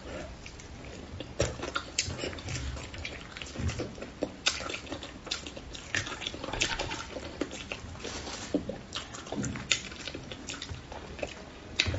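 Close-up mouth sounds of someone eating braised crucian carp: wet chewing, sucking and lip smacks, as many short irregular clicks.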